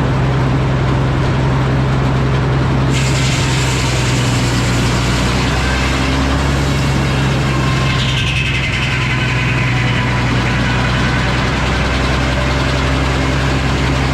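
Antique Frick sawmill running with a steady low engine hum under dense machine noise, which gets brighter about three seconds in, with a falling whine around the middle.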